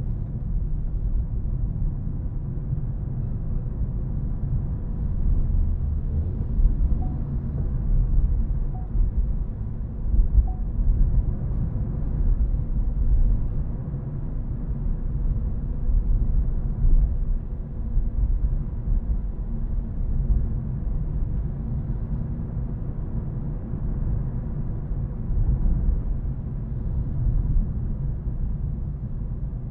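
Ford Focus ST engine and tyre/road rumble while the car is driven, a steady low drone with a few brief louder swells.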